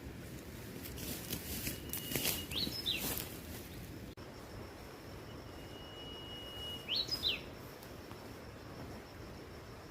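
A bird calls twice, each call a held high whistle ending in a quick rising-and-falling flourish, over steady background noise. A few sharp clicks come around the first call, and a faint high steady tone, like an insect, runs through the second half.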